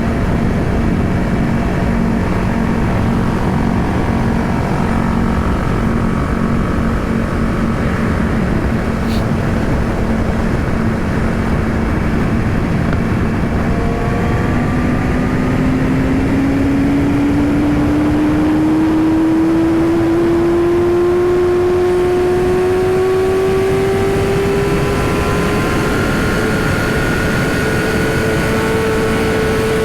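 Yamaha R6 sport bike's inline-four engine running at a steady cruise under heavy wind rush. From about halfway through, its pitch climbs slowly and steadily as the bike accelerates hard.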